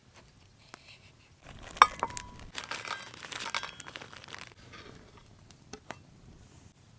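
Plastic food packaging crinkling and tearing as it is opened, for about three seconds, with a sharp ringing clink near the start and a few isolated ticks before and after.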